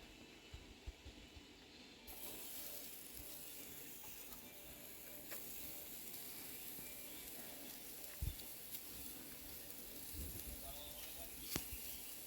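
Faint, steady sizzling of food frying in a pan, setting in about two seconds in, with a few light clicks and knocks.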